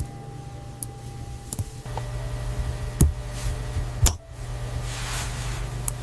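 A handful of sharp small clicks and knocks, the loudest about three and four seconds in, over a steady low hum, with soft swishing strokes near the end.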